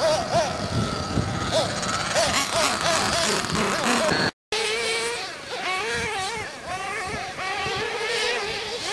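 Small nitro engines of radio-controlled race cars buzzing at high revs, their pitch rising and falling as they accelerate and back off. The sound cuts out for a split second a little before halfway.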